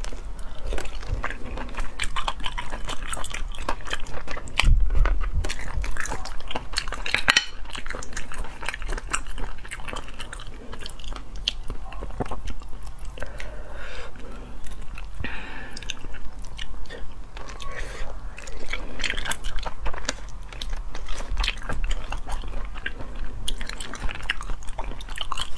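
A person chewing and biting tender braised sea-snail meat, with wet mouth smacks and lip sounds in an irregular run of clicks.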